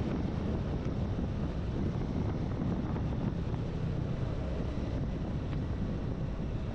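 Steady wind noise buffeting the microphone of a rider on a moving motorcycle, a low, even rumble.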